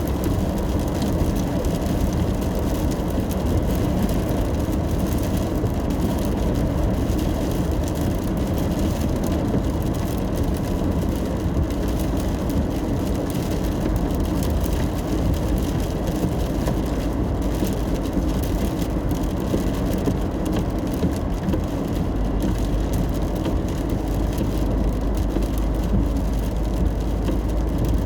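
A car driving in the rain: a steady low rumble of engine and tyres on wet road under a hiss of rain. The deepest rumble grows stronger about three-quarters of the way through.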